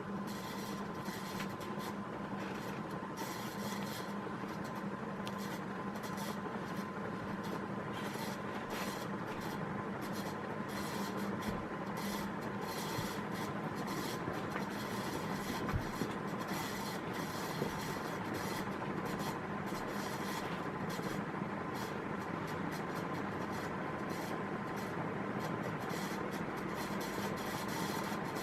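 Vintage 1980s Satellite Miser 36-inch commercial ceiling fan running steadily: a motor hum and a thin high tone over the rush of air.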